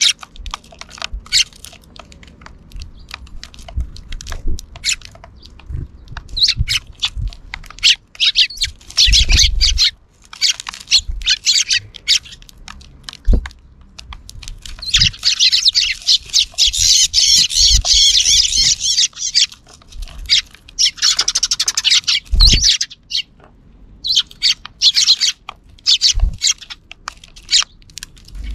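A flock of sparrows chirping and chattering, with a dense burst of continuous chatter about halfway through. A few low thumps are scattered through it.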